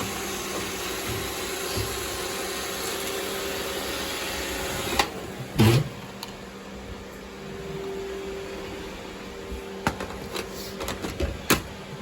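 Robot vacuum running with a steady whir. Just before halfway there are two loud knocks, then the whir is quieter, with scattered clicks.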